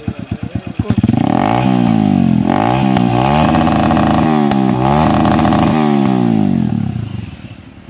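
Sport bike engine through a modified exhaust silencer: a lumpy idle with separate pulses, then from about a second in it is revved several times, the pitch climbing and falling with each blip, before easing off and fading near the end.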